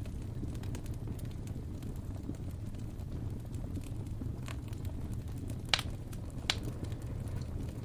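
Wood fire crackling in a fireplace: a steady low rumble from the flames with scattered small ticks, and two sharper pops under a second apart about two-thirds of the way through.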